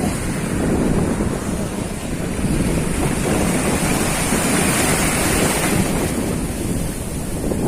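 Strong wind buffeting the microphone over a rough sea, with waves washing steadily; the wash swells louder in the middle.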